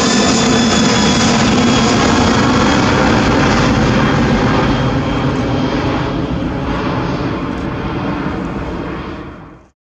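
Airbus A310-300's twin turbofan jet engines at takeoff power, a loud rumble with a whine that falls slightly in pitch. The noise fades after about five seconds and cuts off suddenly near the end.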